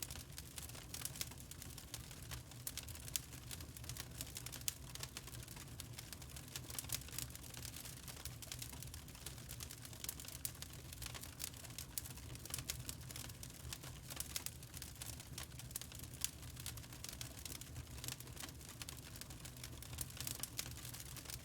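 Wood fire burning in a fireplace, crackling steadily with dense irregular pops and snaps over a low rumble of the flames.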